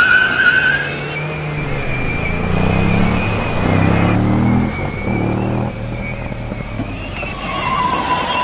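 Vehicle engine revving, its pitch rising several times over a steady whine.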